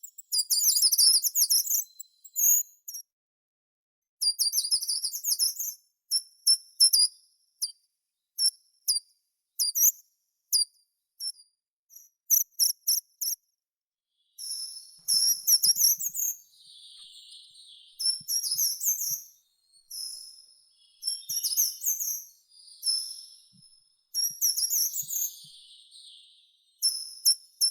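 Songbirds singing: short, high-pitched phrases of rapid trills and chirps, broken by brief pauses, with a softer, lower bird call joining in the second half.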